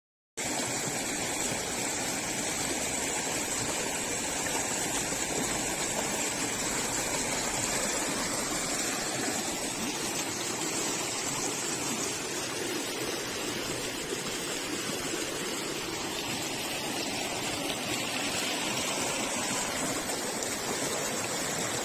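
Steady rush of a hill river's water flowing over rocks, starting suddenly about half a second in.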